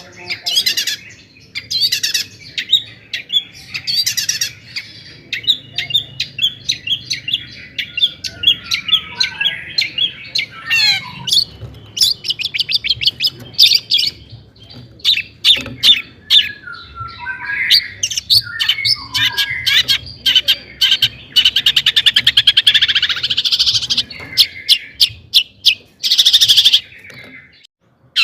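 Long-tailed shrike singing without pause: a rapid, varied stream of chattering notes, short whistles and harsh squawks, with a fast buzzing trill a little past the middle and a harsh, rasping burst near the end.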